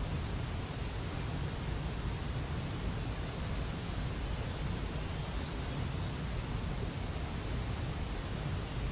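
Waterfall rushing steadily, with a small bird repeating a short high chirp about twice a second, in two runs separated by a pause.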